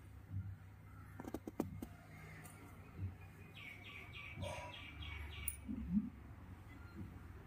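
A bird chirping a quick run of short high notes, about four a second, near the middle. Before it come a few soft taps and cloth sounds as a thin cotton saree is unfolded and flipped over by hand.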